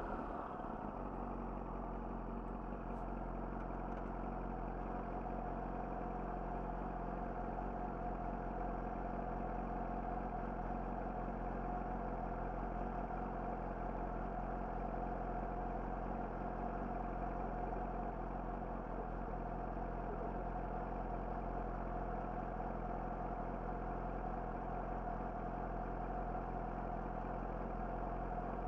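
Yamaha YZF-R6 inline-four with an Akrapovic slip-on exhaust idling steadily, its revs dropping away to idle in the first half second.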